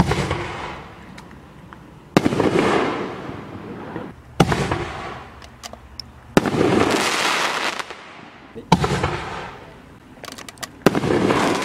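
Aerial firework shells from a 24-shot consumer shell cake (BW2024 Max Break Shell) bursting one after another, six in all, about every two seconds. Each is a sharp bang that trails off over a second or so.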